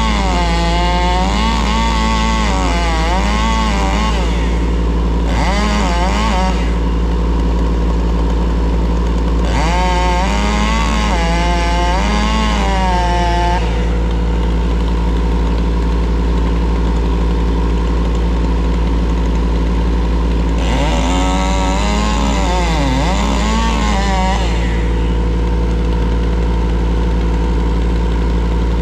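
A steady engine drone from a compact loader running, with a chainsaw revving up and down in several spells as it cuts, the longest about ten seconds in and another near twenty-one seconds.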